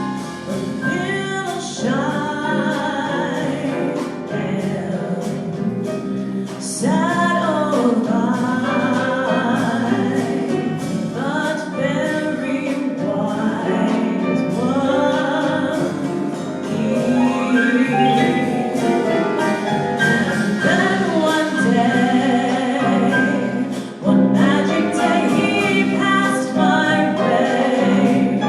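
A woman singing with instrumental accompaniment, the voice gliding through long, bending lines over steadier accompanying notes.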